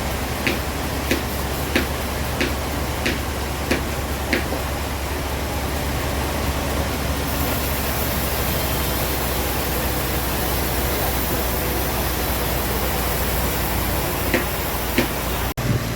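Sawmill machinery running steadily with a low hum and hiss. A regular tick comes about every 0.6 seconds and stops after about four seconds, and two more ticks come near the end.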